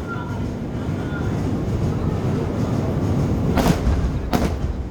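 Fireworks: a steady low rumble of bursts that swells slightly, with two sharp bangs near the end.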